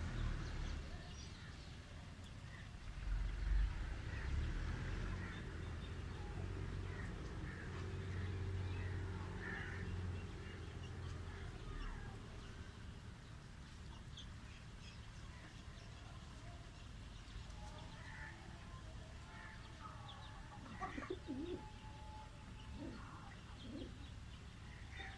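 Pigeons cooing among other birds' short chirps, with a low rumble underneath during the first half.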